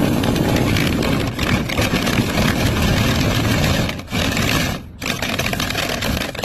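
Dryer vent cleaning equipment running: a loud, steady rush of motor and air noise that dips briefly twice, about four and five seconds in.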